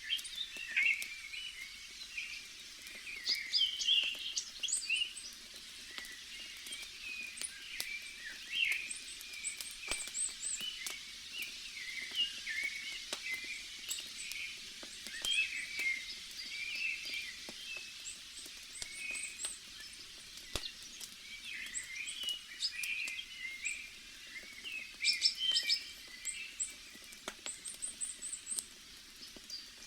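Many small birds chirping and twittering over a faint steady background, with a few sharp pops from a crackling bonfire.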